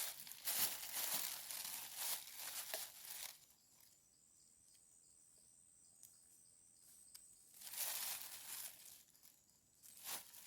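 Rustling and crinkling noises, in uneven bursts for the first three seconds or so and again briefly near the end, with a faint quiet stretch between.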